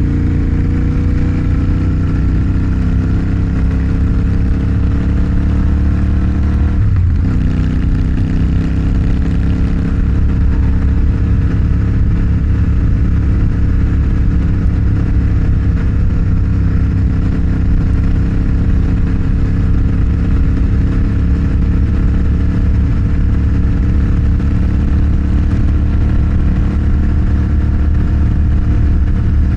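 Motorcycle engine running under way, its pitch climbing slowly as it gathers speed, with one gear change about seven seconds in, after which it climbs slowly again.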